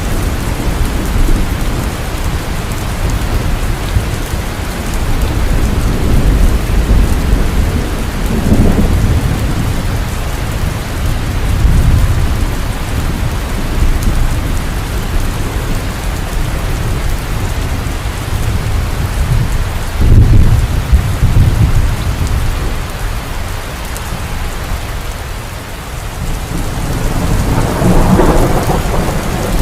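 Heavy rain falling steadily, with rolls of thunder rumbling low several times; the loudest rumble comes about 20 seconds in, and a crackling peal near the end.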